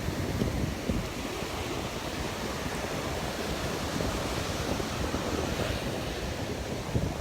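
Surf washing onto the beach in a steady hiss, with wind buffeting the microphone in a low, uneven rumble.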